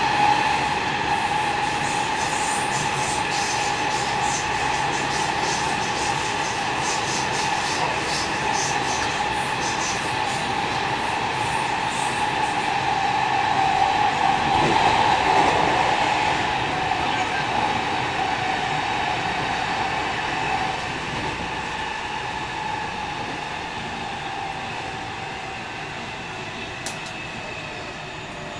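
On-board running sound of a JR West 207 series 1000-subseries electric train with Toshiba GTO inverter drive: a steady whine from the drive over wheel-on-rail noise, with rapid clicking of rail joints in the first dozen seconds. The sound grows quieter over the last several seconds, its tones dropping slightly in pitch.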